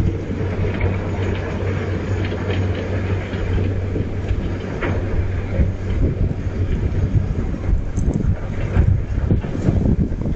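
Wind gusting, a loud low rumble of air buffeting the microphone that swells and eases in waves.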